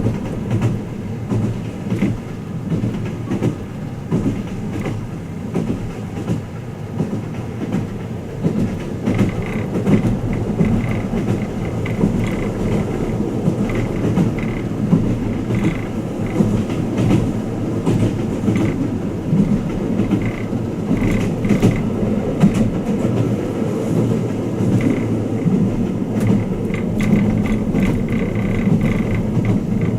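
Twilight Express Mizukaze train running, heard from inside a passenger compartment: a steady rumble of wheels on rail with scattered light clicks. A faint high whine comes and goes from about ten seconds in, as the rumble grows a little louder.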